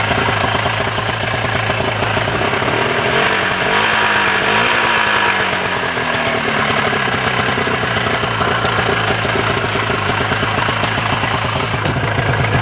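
1987 Ski-Doo Safari 377's two-stroke twin engine running, warming up after a cold start, now drawing fuel through its line. It revs up briefly about three seconds in and settles back down to a steady idle.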